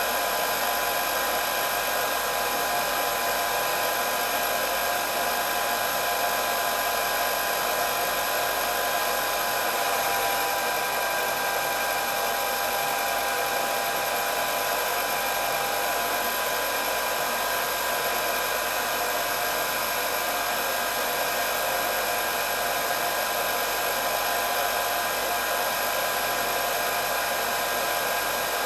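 Hair dryer running continuously: a steady rush of blown air with a constant whine from the motor and fan, no change in speed.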